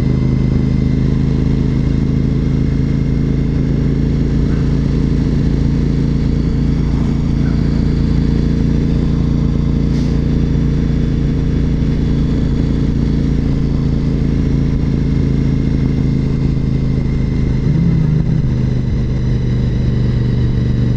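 Honda RC51 SP2's 1000cc V-twin running at a steady cruise, its note holding even throughout with a brief small change near the end.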